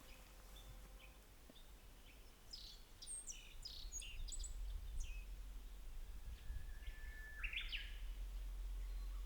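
Small birds chirping, a scatter of short high calls that begins about two and a half seconds in, with one brief held whistle note about two thirds of the way through; a low rumble runs underneath.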